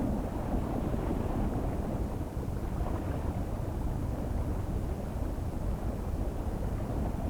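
Steady low rumbling noise with a faint hiss, even throughout, with no distinct events.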